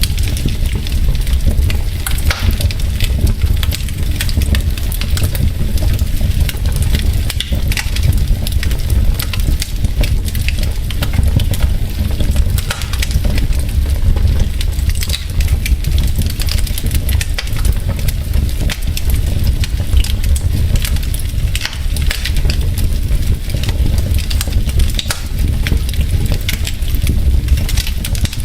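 Logs burning in a wood fireplace, crackling and popping constantly over a steady low rumble of the fire.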